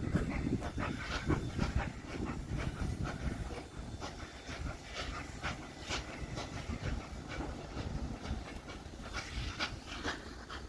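Steam-hauled train running on the track: a steady low rumble with irregular wheel-on-rail clicks and knocks.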